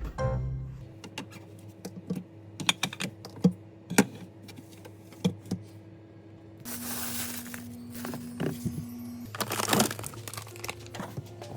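A run of light clicks and taps, then two longer bursts of rustling noise about seven and ten seconds in, over a faint steady hum.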